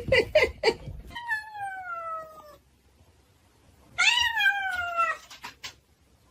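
A cat giving two long, drawn-out meows, each sliding down in pitch, the second starting with a short rise. A few sharp knocks come just before the first meow.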